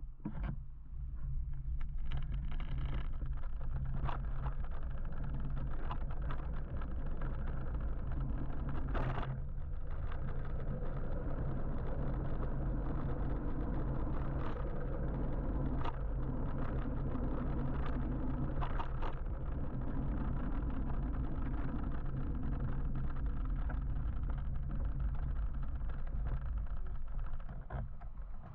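Steady road-traffic noise heard from a moving electric motorbike: a continuous low rumble of tyres and nearby cars, with a few brief clicks and knocks.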